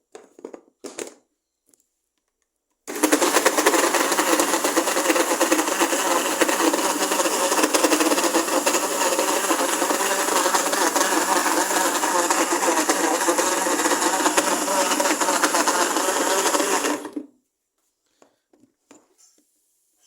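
Blender running with a whole orange in its jar, stripping the peel off the fruit; it starts about three seconds in, runs steadily for about fourteen seconds and cuts off sharply. A few short clicks come before it starts and after it stops.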